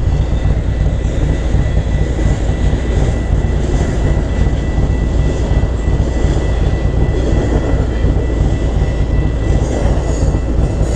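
Steady low rumble from the motorcycle, unbroken, with a faint steady high whine above it.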